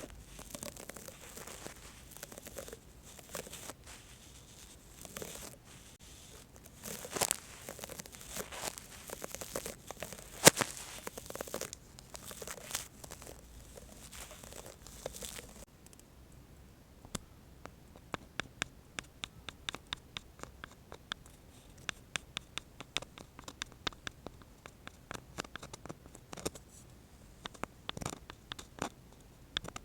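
ASMR brush scratching and rustling in uneven strokes, with a sharp crack about ten seconds in. About sixteen seconds in it gives way to quick, light clicks and taps from a spatula and penlight.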